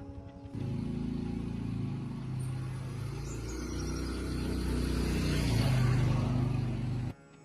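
Restored tractor engine running, speeding up and getting louder toward the middle, then stopping abruptly near the end.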